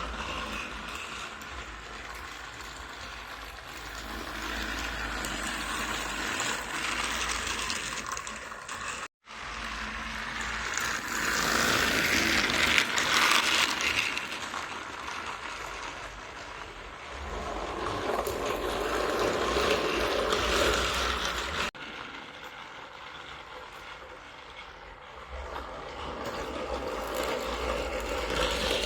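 Small geared motor of a battery-powered Ashima toy engine whirring as it runs along its track, growing louder and quieter in turn. The sound drops out abruptly twice.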